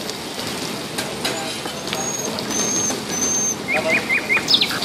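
Oil and egg mixture sizzling on a large flat iron griddle, with a few sharp ladle clicks. Near the end there are four quick high chirps.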